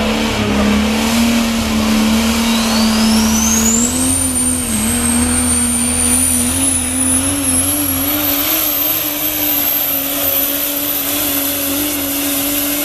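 Diesel 4x4 super truck pulling under full throttle: a steady engine drone that climbs slowly in pitch, with a high turbocharger whistle that rises steeply a few seconds in and then holds.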